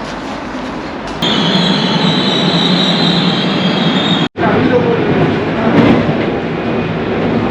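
Subway train running, with a high, steady wheel squeal over rumbling noise for about three seconds, then an abrupt break followed by the train's running noise again.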